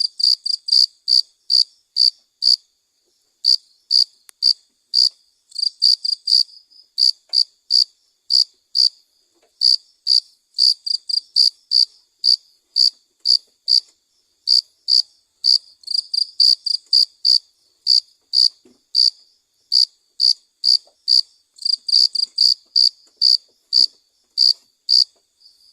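Cricket chirping: short, high-pitched chirps repeated evenly at about three a second, with a few brief pauses and some faster runs.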